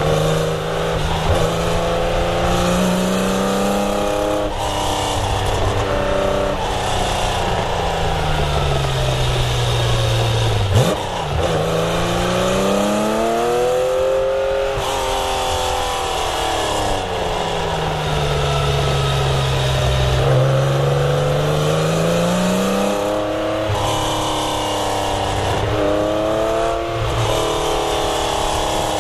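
1970 Porsche 911's air-cooled flat-six engine revving hard through the gears: its pitch climbs under acceleration, breaks briefly at each shift, and sinks again as the car slows, several times over. A single sharp knock sounds near the middle.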